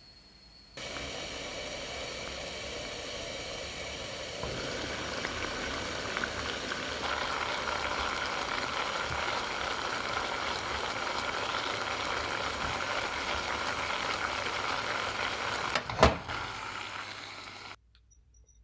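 A small electric motor running steadily with a hum, stepping up in level twice, with one sharp knock shortly before it cuts off suddenly.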